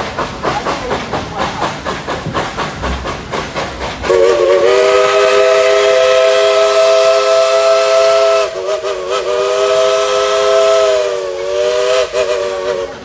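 Dollywood Express No. 70, a narrow-gauge steam locomotive, chuffing rhythmically, then sounding its Southern Railway three-chime steam whistle from about four seconds in. The whistle gives two long blasts and then shorter ones near the end; it is a chord of three notes that bends slightly as each blast starts and stops.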